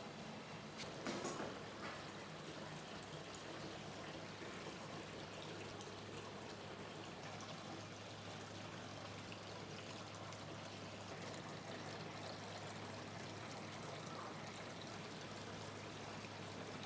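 Water running or pouring steadily, with a brief clatter about a second in.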